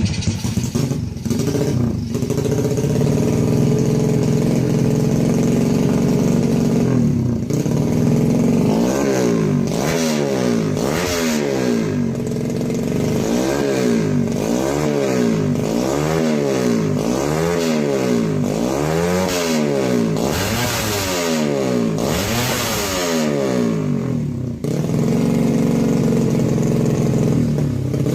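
Motorcycle engine idling, then revved in smooth, rhythmic rises and falls about once a second for some fifteen seconds, then settling back to idle.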